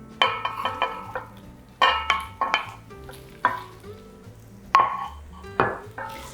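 Chicken sausage pieces frying in hot olive oil in a non-stick cast iron pan, sizzling as they are stirred, with background music playing plucked notes.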